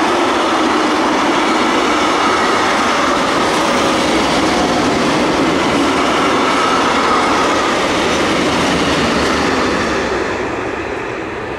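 Freight wagons (flat stanchion wagons, then tank wagons) rolling past at speed, a loud steady rumble and rattle of steel wheels on the rails. The sound falls off from about ten seconds in as the last wagon passes.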